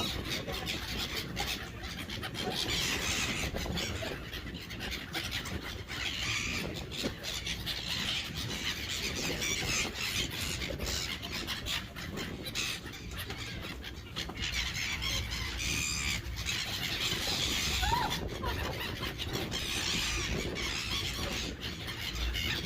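Seagulls calling with high squealing cries in repeated bouts every few seconds, over a steady low rumble.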